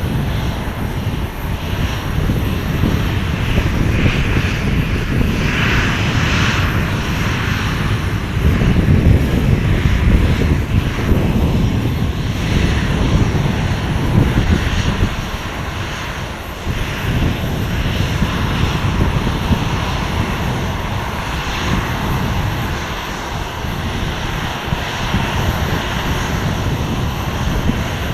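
Airplane engine noise, loud and continuous, mostly deep, easing slightly about two-thirds of the way through before building again.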